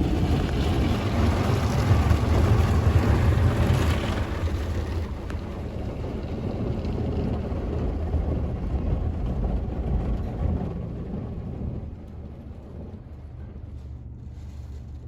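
Automatic car wash starting its wash cycle: water spraying and drumming onto the car over the rumble of the wash machinery, heard from inside the car. It is loudest in the first few seconds, eases off, then drops lower about twelve seconds in.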